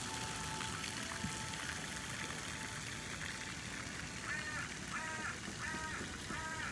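A duck quacking four times in quick succession in the second half, over steady background noise.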